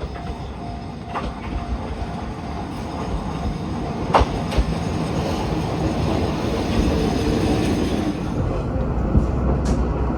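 Diesel railcar approaching, growing steadily louder, its wheels clattering over the rails, with one sharp click about four seconds in.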